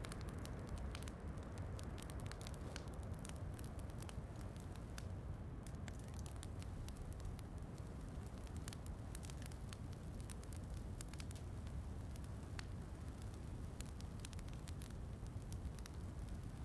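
Wood fire crackling, with irregular small pops and snaps over a steady low rush of rain.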